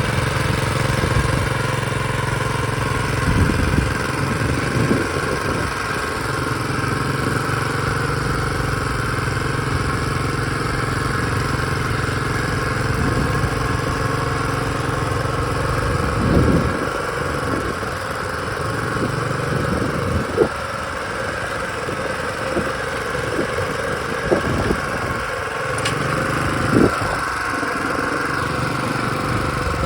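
Small Honda engine on a David Bradley walk-behind tractor running steadily while pulling a small plow. Its low note drops off about halfway through, and a few short clanks come in the second half.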